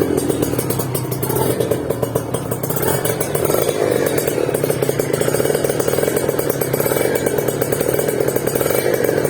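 Motorcycle engine running through a Creampie ZZ1 aftermarket exhaust, a rapid, steady exhaust pulse that swells a little now and then.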